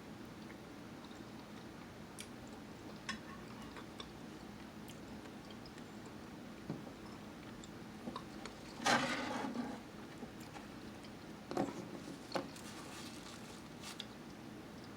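A person quietly eating, with chewing and scattered small clicks of cutlery on a plate, and a louder burst of noise lasting about a second roughly nine seconds in.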